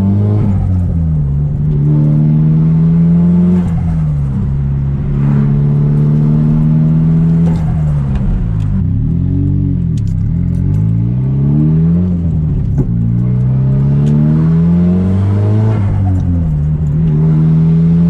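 Straight-piped Nissan Silvia S15's turbocharged SR20DET four-cylinder pulling hard under acceleration, heard from inside the car. The pitch climbs and drops off several times as it shifts up through the gears.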